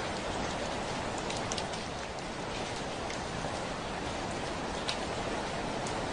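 Steady rain pattering on a window, a dense even hiss with scattered sharper ticks of single drops striking the glass.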